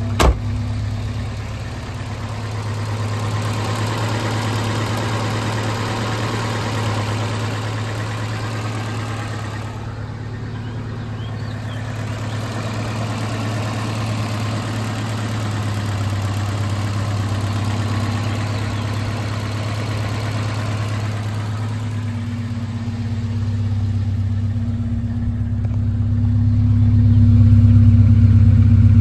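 1987 Alfa Romeo Spider Graduate's twin-cam inline-four idling at just over 1,000 rpm shortly after a cold start, through an exhaust with the rear muffler deleted. The idle is steady and even, with a sharp click just at the start, and it grows louder near the end.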